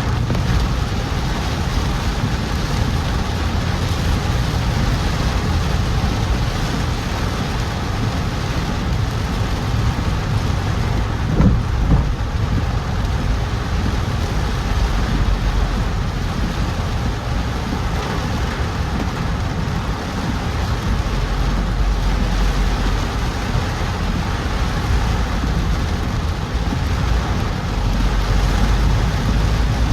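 Heavy monsoon rain falling steadily over a car driving through it, with a steady low rumble beneath the hiss of the rain and one brief thump about twelve seconds in.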